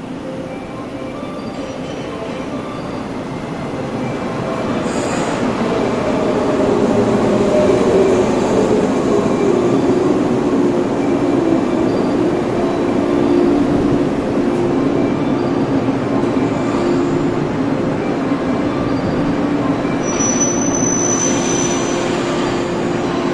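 A yellow JR West 115 series electric train pulls into the platform, its running noise swelling as it comes alongside. A falling whine follows as it brakes, settling into a steady hum once it stands. Near the end there is a brief high-pitched squeal.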